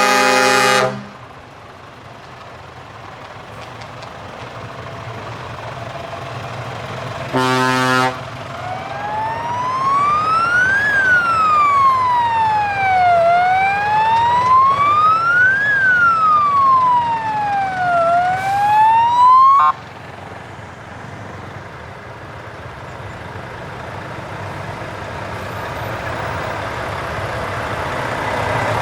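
A truck air horn blasts and stops about a second in, and a second short horn blast follows about seven seconds in. Then a siren wails, rising and falling slowly twice before cutting off suddenly, and a truck's engine noise grows louder toward the end as it approaches.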